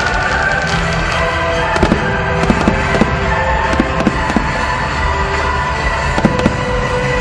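Aerial fireworks going off in quick succession: a steady stream of sharp bangs and crackles, several of them louder, over music playing at the same time.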